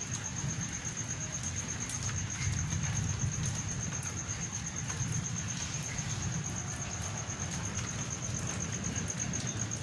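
Steady rain during a thunderstorm, with scattered drop ticks over a low rumble. A thin, high-pitched pulsing sound repeats rapidly and evenly throughout.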